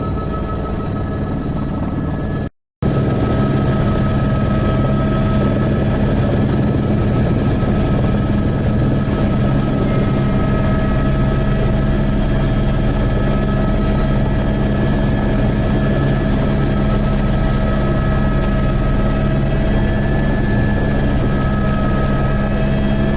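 Helicopter cabin noise: a loud, steady drone of the rotor and engine with a constant hum in flight. The sound cuts out completely for a moment about two and a half seconds in, then comes back unchanged.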